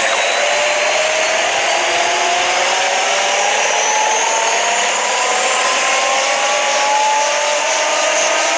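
Helicopter turbine and rotor noise, a steady rush with a faint whine slowly rising in pitch.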